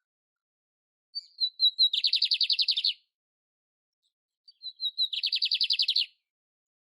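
Canário império (canary) singing two identical phrases. Each phrase is a few short high notes running straight into a fast trill of about a second.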